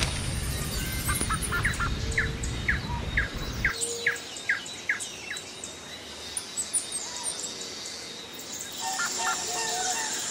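A bird calling in a run of about ten short, falling chirps, spaced a little under half a second apart, with more chirping near the end. A low rumble underneath stops abruptly about a third of the way in.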